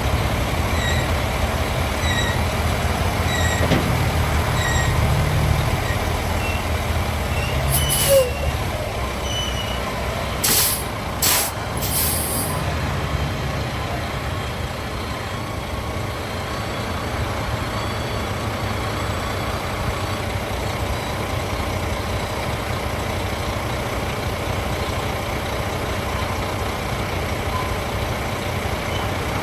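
Cat CT660S dump truck's Cat CT13 diesel engine running steadily, with a repeating beeping alarm in the first few seconds. Short sharp hisses of air from the truck's air brakes come once about eight seconds in and three times between about ten and twelve seconds.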